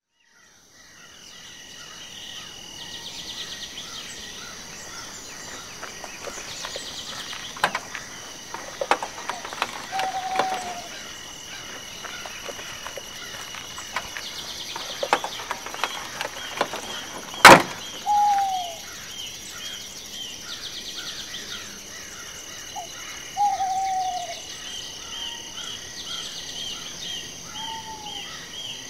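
Outdoor bird ambience: birds chirping and giving short falling calls over a steady high-pitched drone. A few light clicks come early, and a single sharp crack, the loudest sound, comes a little past halfway.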